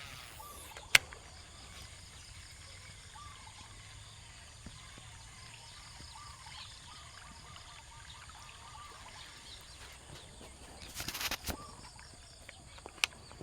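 Outdoor ambience with faint chirping calls, broken by a sharp click about a second in, a short rustling burst near the end and another click just after it.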